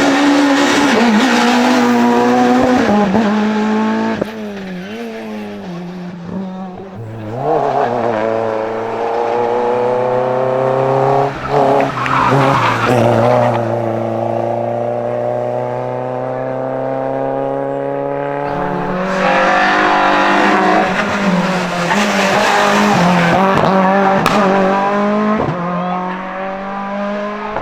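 Racing car engine revving hard on a hill-climb run, its pitch dropping and climbing again through several gear changes and lifts over the run, with tyre squeal.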